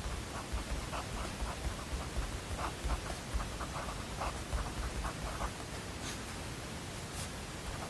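Pen writing on paper: a run of short, irregular scratching strokes for about five seconds, then a couple of brief ticks near the end.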